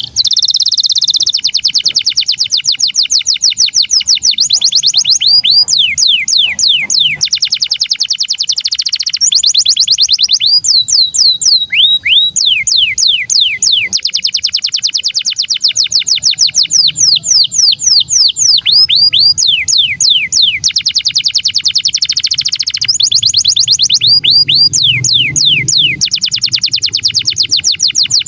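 Domestic canary singing a long, unbroken song of rapid trills: fast runs of repeated falling whistles, switching to a new phrase every second or two.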